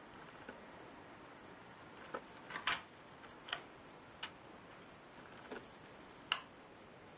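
Light, irregular clicks and taps of small laptop parts and a tool being handled, about seven in all, over a faint steady hiss.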